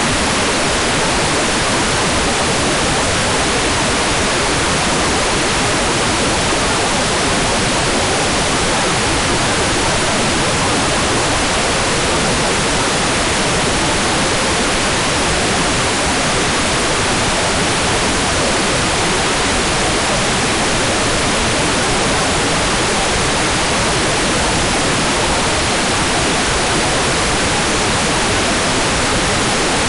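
Hair dryer running continuously: a steady, even rushing hiss of blown air that does not change.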